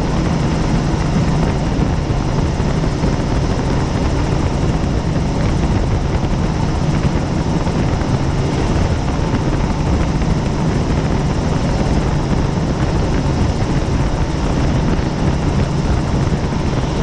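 Helicopter engine and rotor noise heard from on board in flight, a loud, steady drone with a strong low hum.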